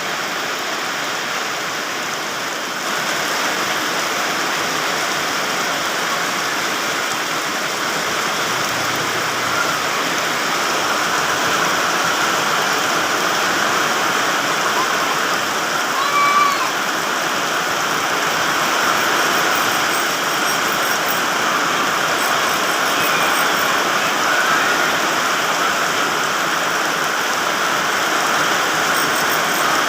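Heavy rain falling steadily, a dense even hiss with no letup. A few brief high sounds cut through, one about halfway and another later.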